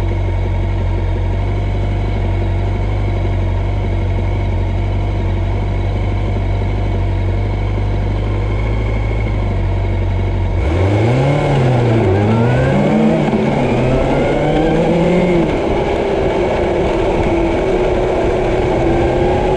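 A steady low engine drone. About ten seconds in it changes abruptly to an engine revving up and down several times, its pitch rising and falling, then holding steadier near the end.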